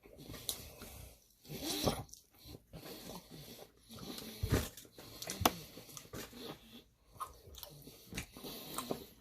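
A person eating close to the microphone: irregular biting, crunching and chewing sounds with a few sharp clicks.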